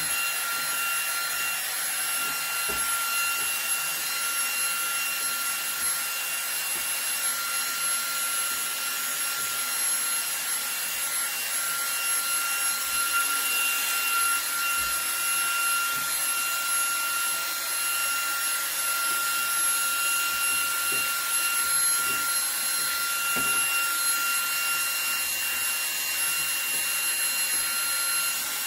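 eufy HomeVac H30 Mate cordless handheld vacuum running steadily on max power, a high whine over a rushing hiss, with a few faint taps as the nozzle works over a vent grille.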